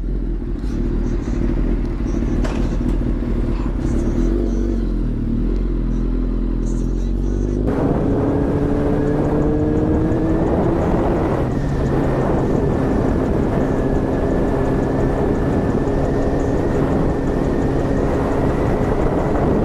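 A 1000cc motorcycle engine running at a steady low note; about eight seconds in the sound jumps to loud wind rush over the engine at speed, its pitch rising for a few seconds and then holding steady.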